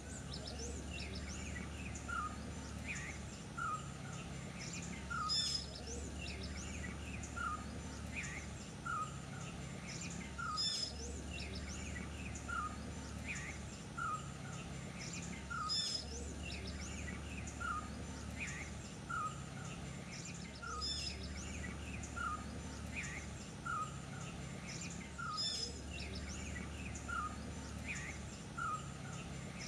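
Birds calling over a steady background hiss: a short chirp repeating about every three-quarters of a second, with a louder call about every five seconds.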